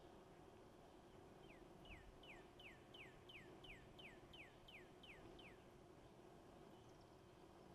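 Faint song of a songbird: a run of about eleven quick notes, each sliding down in pitch, about three a second, over a steady low background hum.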